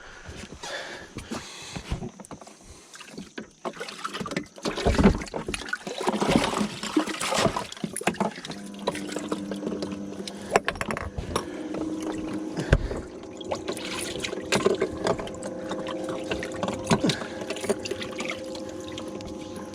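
Water splashing and sharp knocks on a fishing boat. About eight seconds in, a steady mechanical hum with several held tones sets in under them and runs on.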